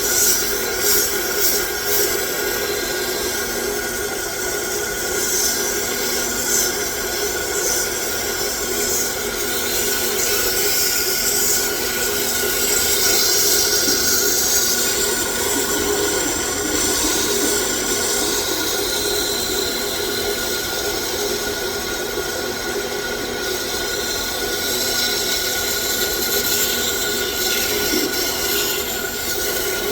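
A 9x20 gear-head lathe running steadily, a constant hum with a steady tone, while 120-grit sandpaper rubs against the spinning workpiece with a hiss that swells and fades.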